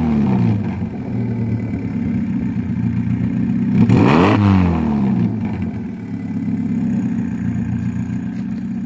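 Cold turbocharged car engine with a new up-pipe muffler, idling and blipped by the throttle. A rev falls away at the start, and another rev rises and drops back to idle about four seconds in.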